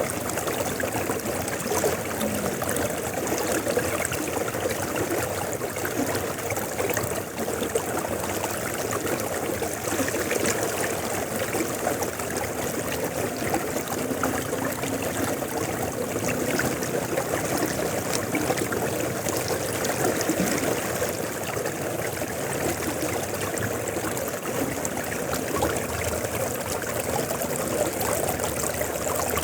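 River water flowing and splashing steadily over stones, a constant rushing and gurgling with no pauses.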